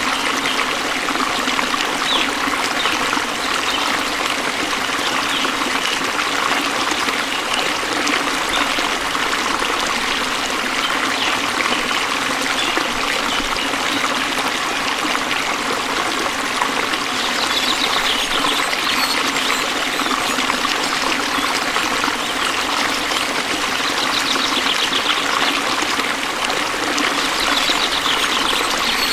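Waterfall: falling water running in a steady, unbroken rush.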